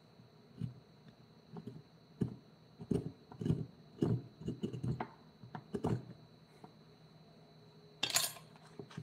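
Irregular knocks and taps of hard objects being handled, with a brief scraping sound about eight seconds in.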